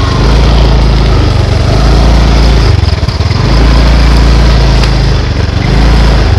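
Motorcycle engine running while the bike rolls slowly along, heard close up from the handlebars. The engine note sags briefly about three seconds in and again near the end.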